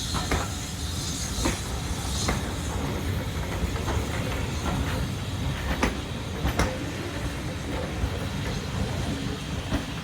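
Train running along the track: a steady low rumble with irregular clicks and knocks as the wheels pass over rail joints.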